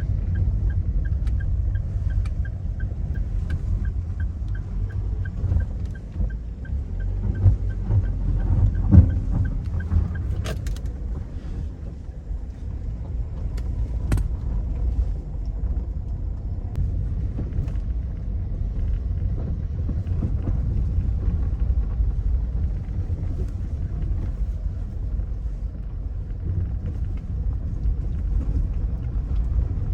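A car driving, a steady low rumble of engine and road, with a few knocks. A regular high ticking, about two or three times a second, runs through the first ten seconds.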